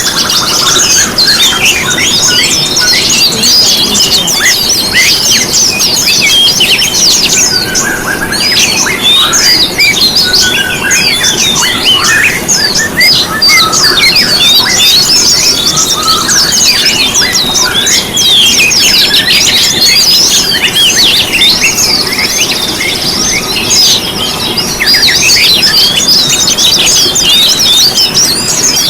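A dense mix of many small songbirds chirping, trilling and whistling over one another without pause. It is a bird-song lure recording made to prompt caged songbirds to sing.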